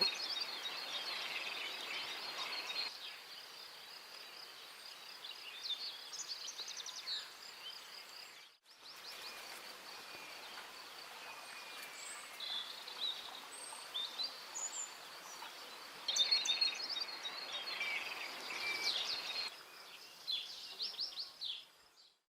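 Wild songbirds chirping and trilling over a steady background hiss and a constant high insect-like tone.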